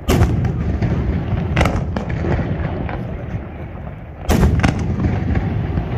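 Aerial firework shells bursting: a sharp bang just after the start, another about a second and a half in, and a louder double bang a little past four seconds, each followed by a long low rumbling echo.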